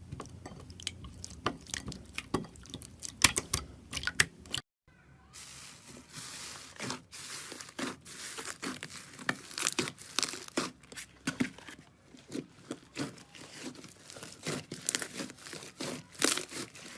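Slime being squeezed and pressed by hand, giving a dense run of irregular sticky crackles and pops. The sound drops out briefly about five seconds in, then goes on.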